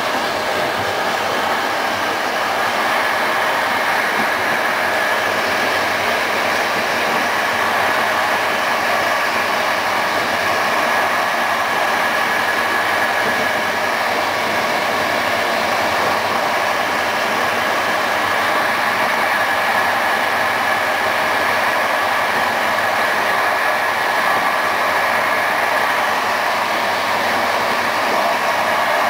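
Passenger train hauled by an EU07 electric locomotive running along the line, with a steady rolling noise of wheels on rail that grows slightly louder over the first couple of seconds.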